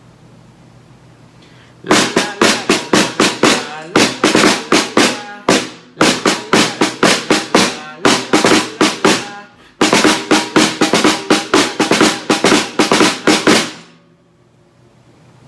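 Snare drum (tarola) struck in a quick, steady beat of about four to five strokes a second. It plays in four phrases, each broken off briefly, and stops about fourteen seconds in.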